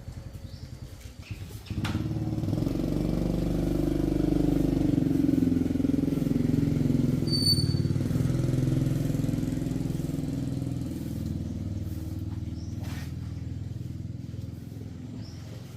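Motorcycle engine starting up about two seconds in and running steadily, loudest a few seconds later, then gradually fading as the bike rides off.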